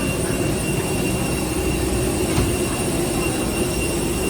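Steady mechanical drone of an airliner at the gate, with a constant hum and a thin high whine that do not change.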